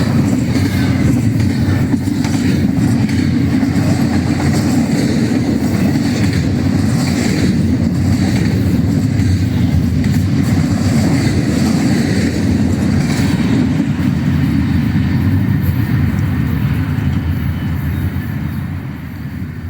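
Freight train cars rolling past at speed: a steady, loud rumble of wheels on rail with faint clicks over the rail joints, easing off near the end.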